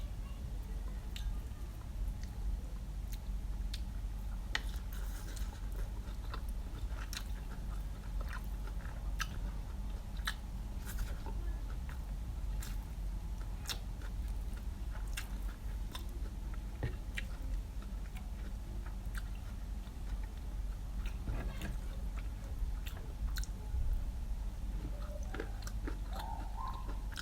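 Close-up eating: a person chewing and biting food with scattered crunches and wet mouth clicks, over a steady low hum.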